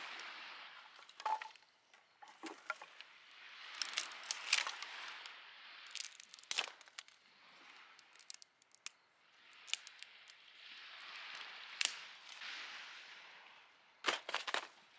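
Small waves washing onto a beach, the hiss swelling and fading every few seconds, with scattered sharp clicks and taps over it.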